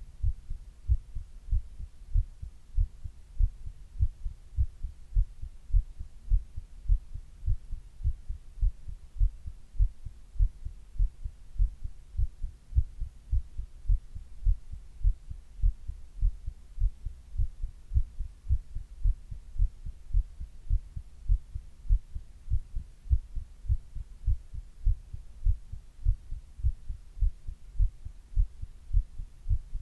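A person's heartbeat heard close up, a steady regular lub-dub of low, dull thumps at a calm resting pace, with a faint steady hum underneath.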